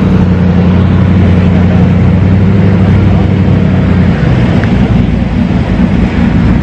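A car engine idling with a steady low hum that stops about four seconds in, over a loud background of outdoor noise and people talking.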